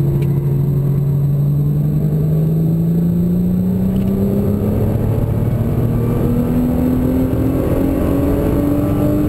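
Nissan GT-R's twin-turbo V6, heard from inside the cabin, accelerating hard through a single gear, its pitch rising steadily.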